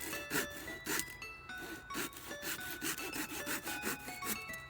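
Hand saw cutting through wood, a quick even run of about three strokes a second, over light background music.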